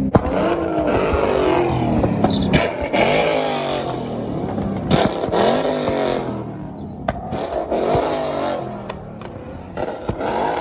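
Car engines revving again and again, each rev climbing and falling in pitch, with a few sharp clicks between them.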